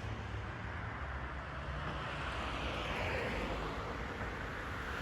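Steady low background rumble under an even hiss.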